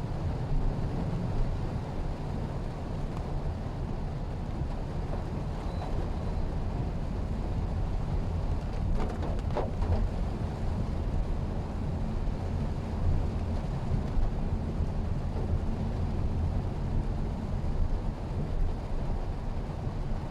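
Steady low rumble of a Mitsubishi Xpander being driven: engine and road noise.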